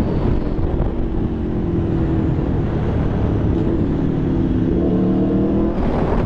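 Aprilia Tuono V4's V4 engine running under way, its note easing down slightly, then climbing under throttle about five seconds in before dropping off, over a low rush of wind and road noise.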